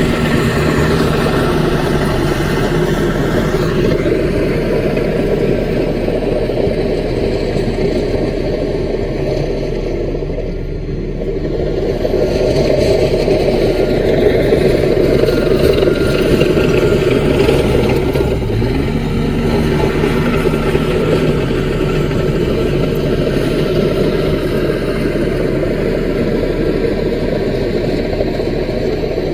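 Caterpillar mini bulldozer's diesel engine running steadily under load. It eases off briefly about ten seconds in, then works harder again for several seconds.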